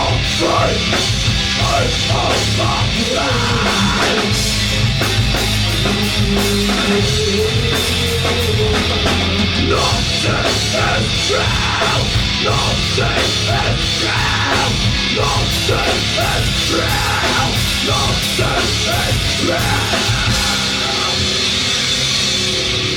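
A rock band playing loud live music, with drum kit and guitar.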